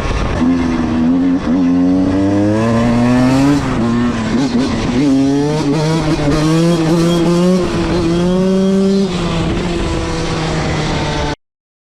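1997 Honda CR125R's 125cc single-cylinder two-stroke engine running hard, its pitch climbing several times and dropping back in steps as if through gear changes. It then holds a steadier note and cuts off suddenly near the end.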